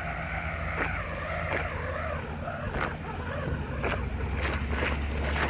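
Wind buffeting the microphone of a handheld camera on a moving bicycle, a steady rumble with a scatter of sharp clicks and rattles.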